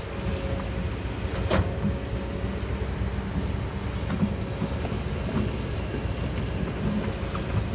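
Kobelco hydraulic excavator's diesel engine running steadily under load, with a sharp knock about a second and a half in and a few lighter clicks.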